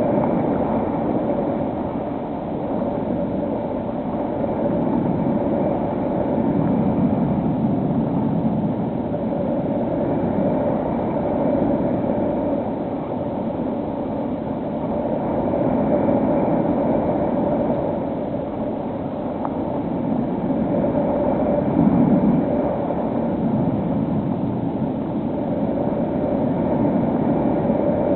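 Electric motor and propeller of a HobbyKing SkyEye model plane running steadily in flight, a held hum over rushing air noise that swells and eases every few seconds.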